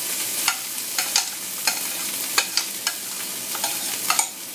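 Rice and garlic sizzling in hot oil in a wok, with repeated ringing metal clinks, roughly two a second, as a metal utensil scrapes and taps cooked rice out of a metal pot into the wok.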